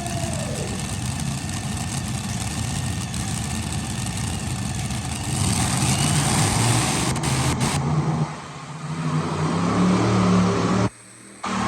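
Diesel truck engine running, in short cut-together clips; it gets louder about halfway through and drops out briefly near the end.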